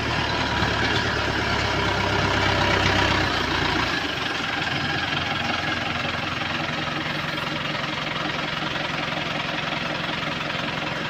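Tractor engine running steadily. About three and a half seconds in its deep low note drops away and it settles to a slightly quieter, even running.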